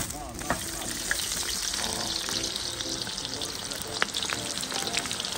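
Chopped onion dropped into hot oil in a cast-iron kazan, sizzling steadily with many small spitting crackles from just after it hits the oil.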